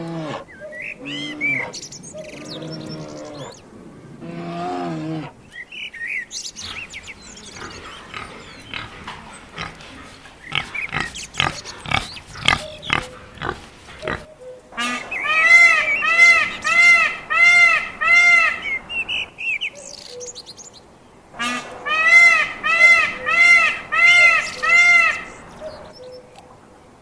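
Farm animals calling in a series of separate clips: low calls first, then a run of sharp clicks, then two bouts of quickly repeated high-pitched calls, about two a second.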